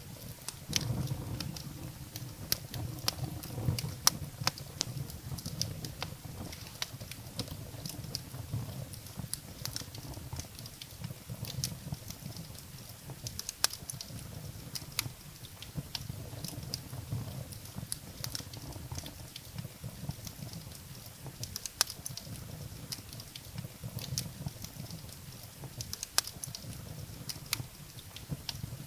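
Firewood burning in a fireplace, crackling with frequent sharp pops and snaps, some louder than others, over the low steady sound of the flames.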